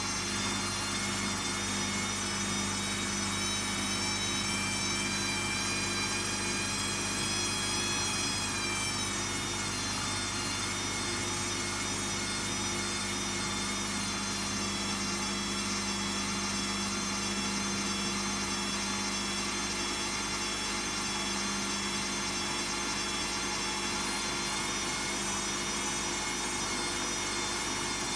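Zanussi ZKN7120L washing machine running at speed, its motor and drum giving a steady multi-toned whine, typical of a spin. The whine climbs a little and then drops in pitch about nine seconds in, as the drum speed changes.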